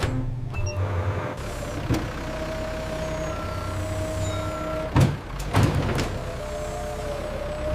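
A machine or engine running steadily with a low hum and a held tone, with a few sharp knocks, the loudest about five seconds in.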